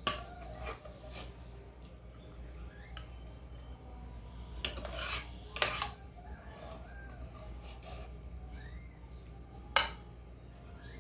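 A utensil clinking and scraping against a dish: a few sharp taps and one short scrape, with a strong clink near the end.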